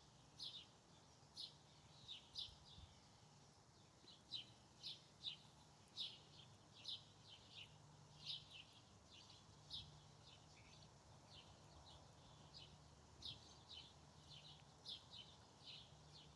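Bird chirping: a run of short, high chirps, two or three a second, that stops for a few seconds past the middle and then starts again.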